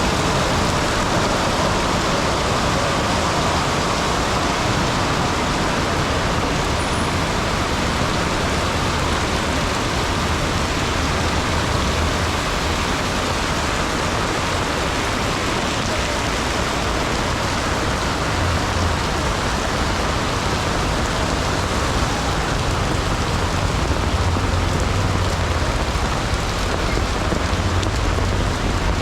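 Heavy rain pouring steadily, mixed with a low rumble of road traffic.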